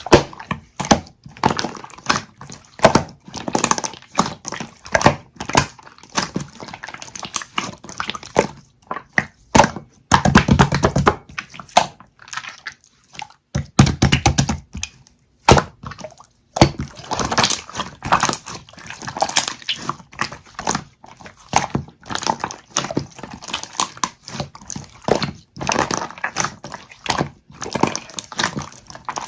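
Slime being squished, pressed and stretched by hand, giving a dense run of sticky clicks and pops, with two longer squelching presses near the middle.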